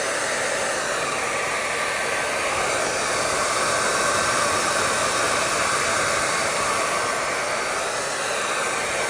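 Hair dryer running steadily: an even rush of blown air with a faint high whine from the motor and fan.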